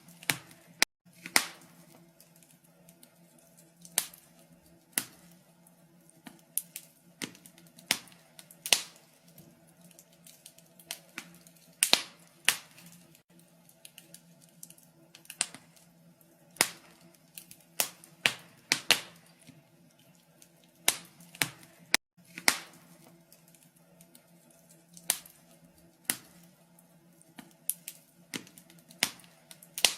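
Wood fire crackling in a fireplace: irregular sharp pops and snaps from the burning logs, a few a second at times, over a low steady hum.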